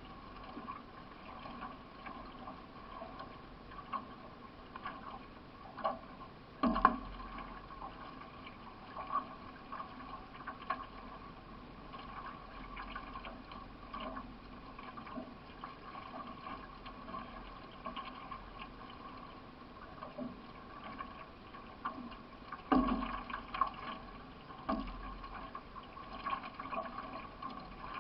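Water gurgling and splashing against a solo racing canoe's hull as it is paddled, with irregular paddle strokes in the water. Two sharper knocks stand out, about seven seconds in and again near twenty-three seconds.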